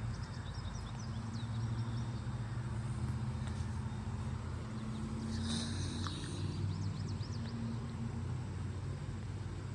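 Steady low engine rumble, with short high chirps twice over it.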